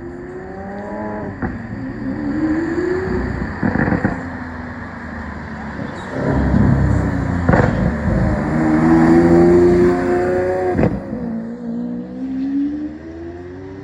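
Car engines accelerating, their pitch rising and falling several times as they rev and change gear, loudest around the middle before dropping off suddenly.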